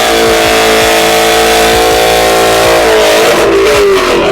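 Car engine held at steady high revs during a burnout contest, very loud, with the revs dropping away about three and a half seconds in.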